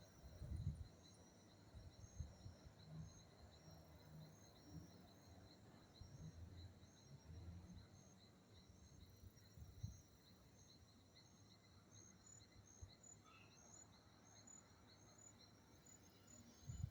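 Faint insects chirping in a steady, evenly repeating pattern, with scattered soft low thumps, the strongest about half a second in and again near the middle.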